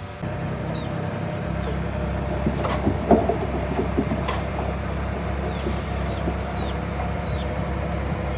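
Diesel engine of heavy earthmoving machinery running steadily, with a few sharp clanks of rock and metal about three to four seconds in.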